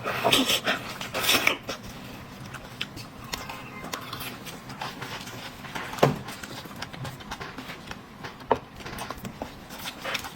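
Close-miked eating sounds of someone sucking and chewing beef bone marrow: two loud slurps in the first second and a half, then quieter chewing with scattered mouth clicks and a sharp smack about six seconds in.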